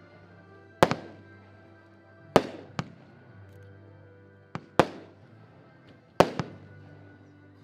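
Xplode Zero 19-shot consumer firework battery firing: four loud bangs about one and a half seconds apart, each trailing off in an echo, with a quieter extra crack near two of them.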